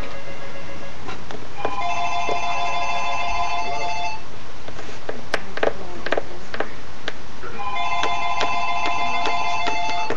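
Telephone ringtone ringing twice, an electronic ring of several stacked tones lasting about two and a half seconds each time, with a gap of about three and a half seconds between. Light clicks and taps sound in the gap.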